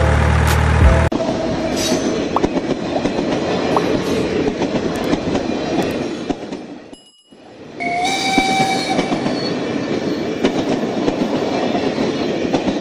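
Steam train running with a steady rolling clatter that drops out briefly midway, then a whistle blows for about a second. A low truck-engine rumble cuts off abruptly about a second in.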